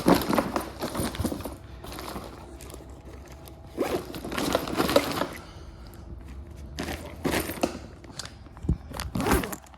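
Backpack being handled and zipped up, rustling and scraping in several uneven bursts, with a couple of sharp knocks near the end.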